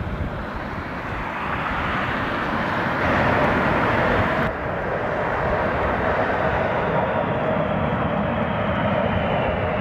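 Jet airliner engines running, a steady whine over a rumble that grows louder over the first few seconds. The high part of the sound drops off abruptly about four and a half seconds in.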